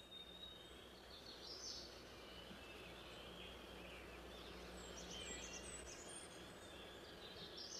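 Faint outdoor ambience with a few soft, high bird chirps scattered through it.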